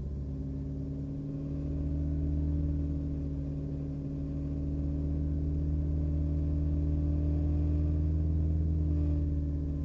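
BMW E90 318i four-cylinder petrol engine held at steady raised revs, a steady deep drone that swells slightly about two seconds in. This is the vibration the owner hears at about 2,000–2,500 rpm, which persists despite recently replaced gearbox mounts.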